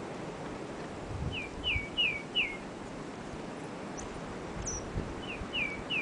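A songbird singing: two phrases of four quick, falling whistled notes a few seconds apart, with a couple of short, thin high notes between them, over a steady outdoor hiss.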